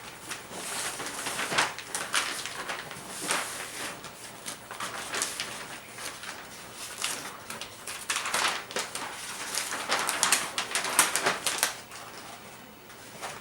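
Gift-wrapping paper rustling and crinkling in irregular bursts as a present is wrapped.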